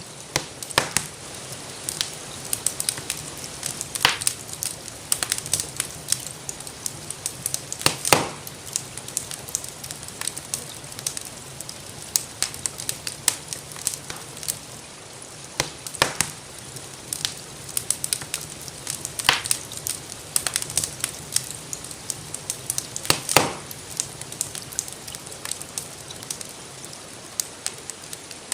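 Fireplace wood fire crackling with frequent sharp pops and a few louder snaps, over a steady hiss of gentle rain.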